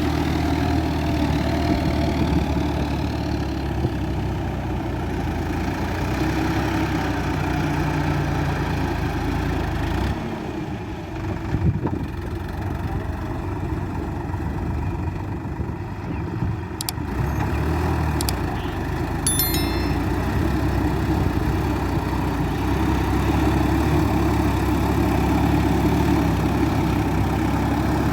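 Tractor diesel engine running steadily at a low idle-like rumble. The deep part of the sound drops away for several seconds in the middle, then returns. Near the middle there are a couple of sharp clicks and a brief high ding.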